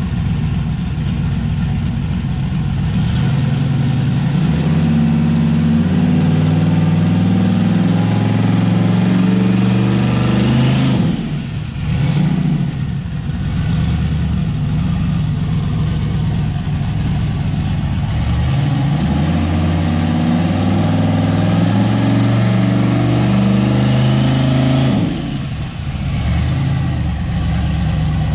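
LS V8 engine in an S10 pickup revved up and held at raised speed twice, each time for several seconds, dropping back toward idle about 11 seconds in and again about 25 seconds in.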